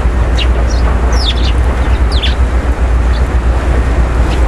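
Birds calling outdoors: about eight short, high calls that sweep down in pitch, most of them in the first half, over a steady low rumble.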